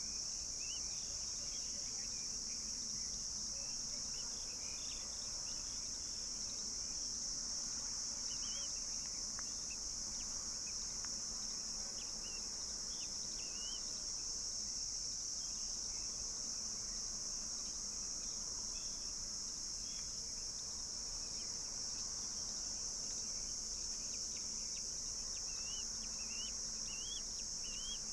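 Steady high-pitched chorus of insects such as crickets or cicadas, with scattered faint short bird chirps.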